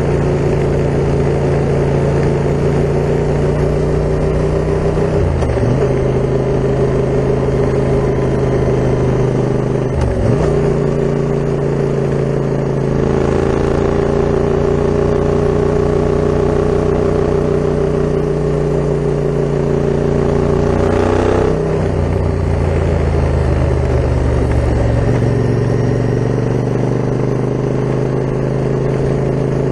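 Yamaha MT-07 689 cc parallel-twin engine running through an Akrapovic full carbon exhaust while riding, at a steady, loud note. Its pitch steps down briefly and changes several times, as on gear changes.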